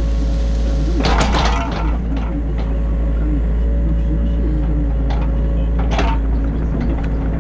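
New Holland Kobelco E50.2 mini excavator running steadily under load, heard from inside the cab, its hydraulics whining and wavering in pitch as the arm works. A clattering knock comes about a second in and another near six seconds, as the bucket and machine parts clank.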